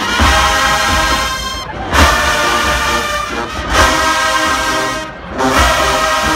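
Marching band brass section blasting loud sustained chords in short phrases, breaking off briefly about two seconds in and again about five seconds in.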